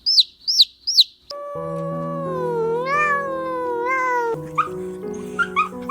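A cat giving one long, drawn-out meow that bends up and down in pitch, over background music that starts about a second and a half in. Short rapid high chirps come before the meow, and shorter squeaky calls follow it.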